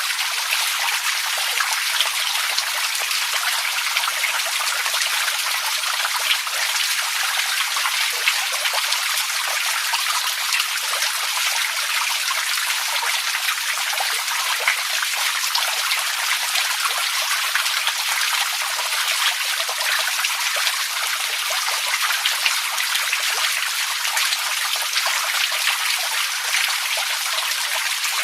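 Running water trickling and splashing steadily: a bright, hissy wash dotted with many small droplet splashes, with no change throughout.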